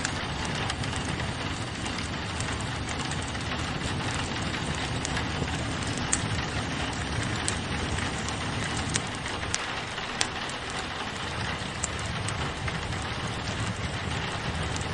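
Steady rain falling on a window pane together with a fireplace crackling, with scattered sharp pops standing out every second or so.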